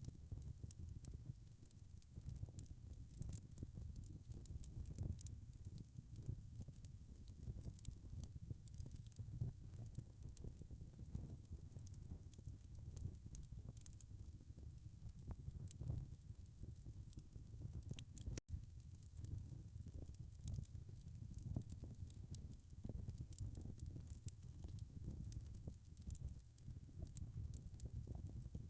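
Wood fire crackling: a soft low rumble of burning with frequent small, sharp pops and snaps. The sound cuts out for an instant about eighteen seconds in.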